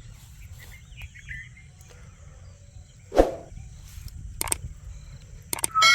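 Faint chirps from a rose-ringed parakeet over a steady low rumble, with one short loud sound about halfway and a few sharp clicks after it. A loud electronic jingle with a rising glide starts right at the end.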